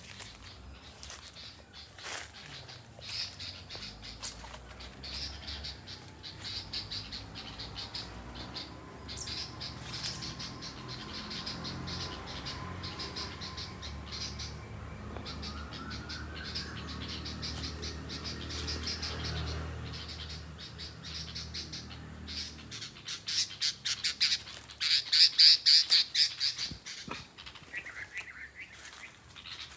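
Bulbul chick giving harsh, rapidly repeated squawking calls in runs, loudest near the end.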